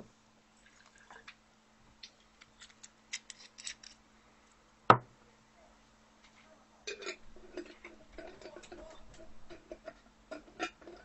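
Small hard objects being handled: scattered light clicks and clinks, one sharp knock about five seconds in, then a stretch of clattering near the end.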